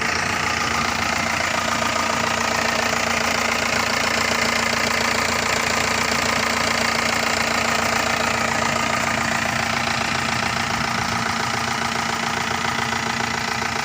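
Mahindra Bolero's turbo engine running steadily at an unchanging speed.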